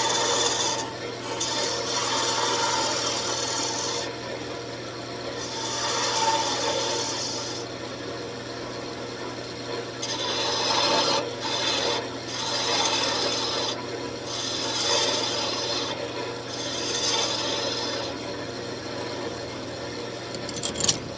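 Wood lathe turning tool cutting a spinning wooden table leg, in repeated scraping passes of a second or two each, over the steady hum of the lathe motor.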